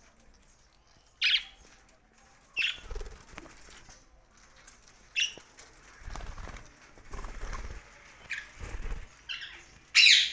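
Pet budgerigars giving short, sharp chirps every second or two, with low fluttering wing flaps in between.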